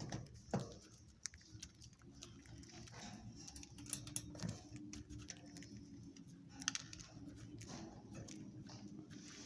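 Faint scratching and clicking from budgerigar chicks shuffling about, with a few soft taps.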